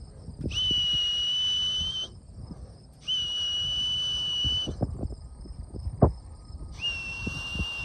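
A whistle blown three times, each a long, steady note of about a second and a half at the same pitch, with a single sharp knock between the second and third notes.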